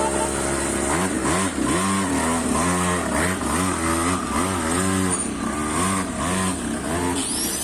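Small two-stroke grass-cutter engine on a mini ATV, freshly fitted with a new cylinder bore, idling briefly and then revved in quick blips about twice a second, its pitch rising and falling with each blip.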